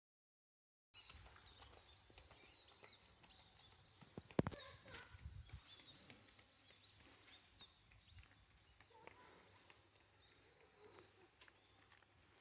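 Faint outdoor birdsong: many short, high chirps, busiest in the first few seconds, over a low rumble. A single sharp knock, the loudest sound, comes about four seconds in.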